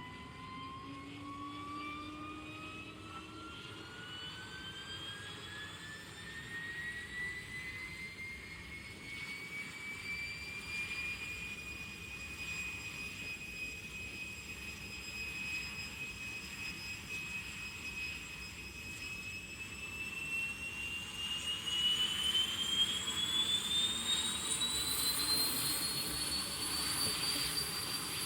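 Turbomeca Marbore II turbojet on a jet dryer truck spooling up: a whine that rises steadily in pitch and grows louder, holds level for several seconds, then climbs again and levels off near the end.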